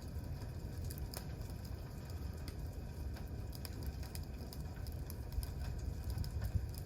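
Wood campfire burning, with scattered sharp crackles and pops from the burning wood over a steady low rumble.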